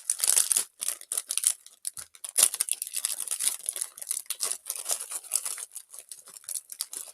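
Plastic snack packaging being crinkled and torn open: a dense, irregular crackling that goes on without a break.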